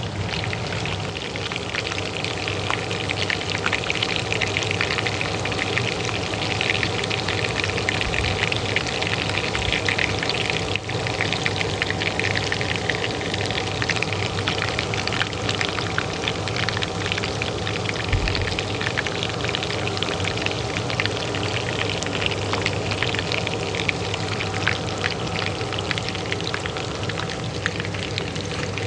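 Oil frying in a pan, a dense, steady crackle and sizzle, over the steady hum of a kitchen range hood fan.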